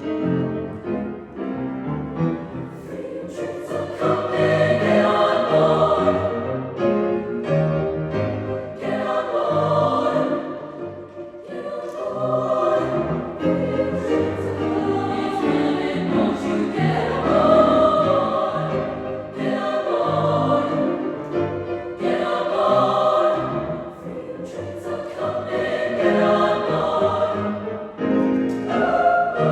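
Large choir singing in parts, its phrases swelling and falling back every few seconds.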